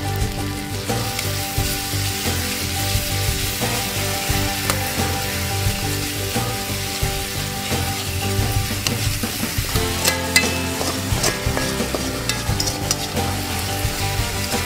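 Red chili paste sizzling as it fries in hot oil in a metal pan, stirred and spread with a metal spatula that scrapes against the pan. The scraping clicks come more often in the second half.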